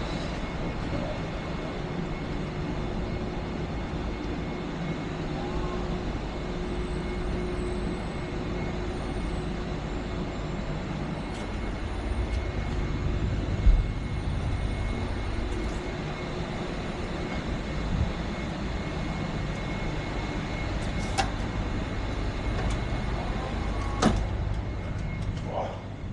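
A steady engine running with a low rumble, with a few sharp knocks and clanks over it.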